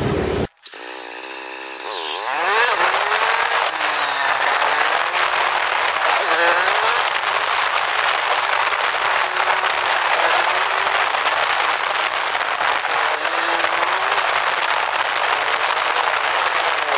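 Honda Verza single-cylinder motorcycle engine running while riding, its pitch wandering up and down with speed. It is louder from about two seconds in, after a brief dropout near the start.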